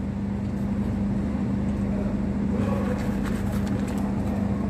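Steady low mechanical hum with one constant droning tone and a rumble beneath it, with a few faint clicks about three seconds in.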